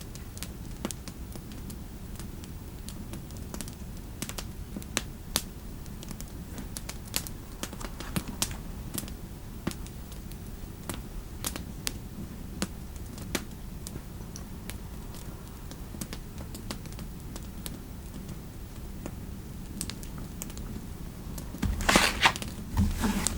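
Sparse, irregular clicks of keyboard typing and fire crackle over a steady low fireplace rumble. About a second and a half before the end there is a louder rustle lasting about half a second, followed by a shorter one.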